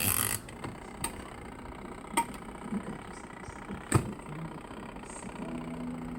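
Washing machine running, with irregular sharp knocks, the loudest about four seconds in, and a steady low motor hum that starts near the end.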